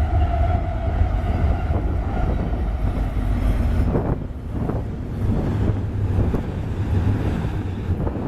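Union Pacific intermodal freight train hauled by diesel locomotives passing, a deep steady rumble. A high steady tone fades out in the first second or two, and a couple of brief clanks come about four seconds in.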